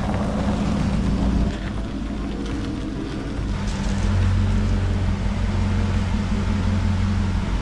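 Pontiac Trans Am's V8 engine running steadily at low revs as the car rolls slowly. About halfway through, the low note grows fuller, with the car inside the shop building.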